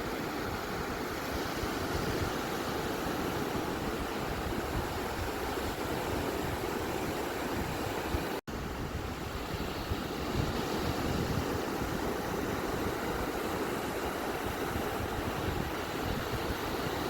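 Ocean surf on a beach, a steady, even rush of waves, broken by a split-second dropout to silence about halfway through.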